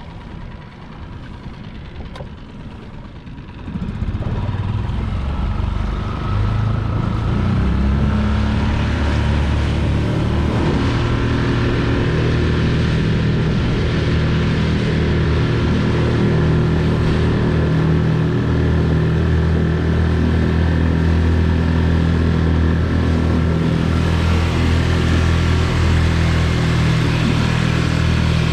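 Tohatsu 6 hp outboard motor idling, then opened up about four seconds in and rising again over the next few seconds, then running steadily at high throttle, driving the kayak-skiff along.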